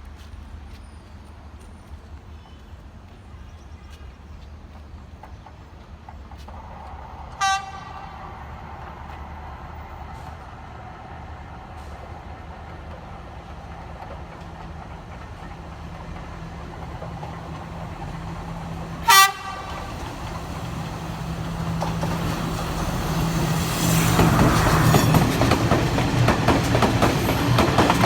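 Diesel-hauled intercity express approaching at speed: two short horn blasts, the second much louder, over a growing engine rumble, then the rushing clatter of wheels on rail as the train runs through without stopping.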